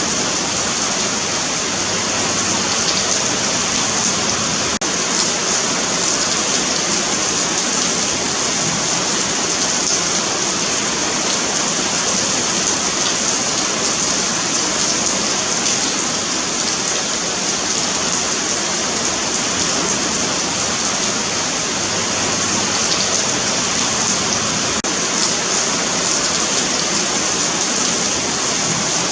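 Steady rain falling on a paved sidewalk: a continuous, even hiss of drops on concrete.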